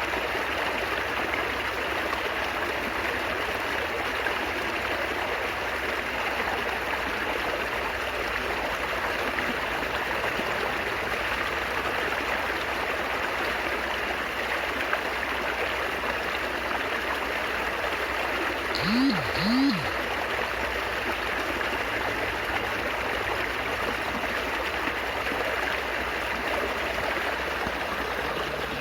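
Steady babbling of flowing water in a stream. About two-thirds of the way in, two short tones rise and fall in pitch in quick succession.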